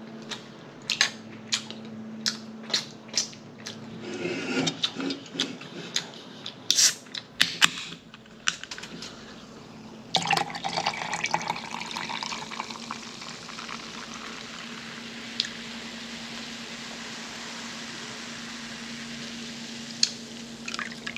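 Eating sounds: short wet clicks and smacks, several a second, for about ten seconds. Then a steady hiss of running water starts and carries on.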